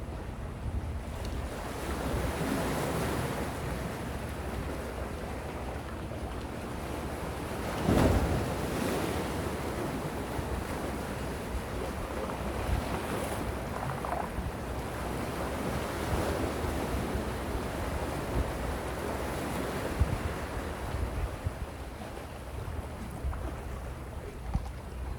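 Gentle sea waves washing in and drawing back in slow swells, with one louder rush about a third of the way in. Wind buffets the microphone with a low rumble.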